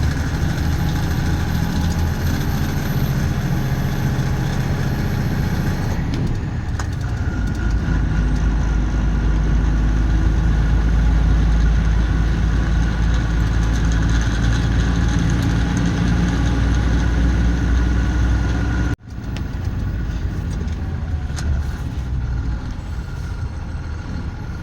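Truck engine running as the truck drives, a steady low rumble that grows louder about a third of the way in. Near the end it cuts out abruptly for an instant, then goes on a little quieter.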